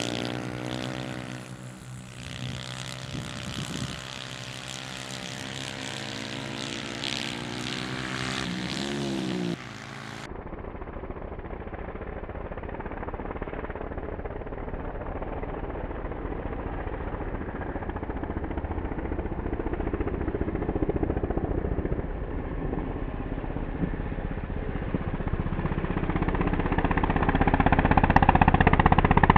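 Small single-cylinder pitbike engine running, with a quick rev rising in pitch about nine seconds in. About ten seconds in the sound changes abruptly to a duller, muffled engine-like noise that grows louder toward the end.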